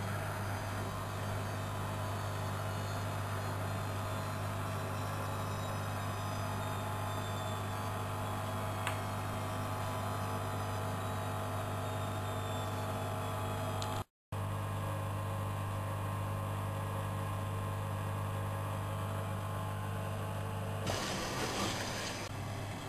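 Studio WM26AAA washing machine running, a steady motor hum with a faint high whine that slowly falls in pitch over the first ten seconds. A short rush of noise comes about 21 seconds in.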